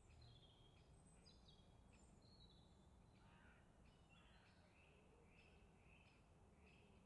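Near silence with faint songbirds calling: short high chirps, a few quick falling runs of notes early on, then a series of repeated notes in the second half.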